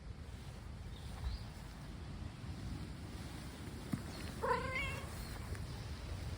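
A domestic cat meows once, a short wavering call about two-thirds of the way in, over a steady low rumble of background noise.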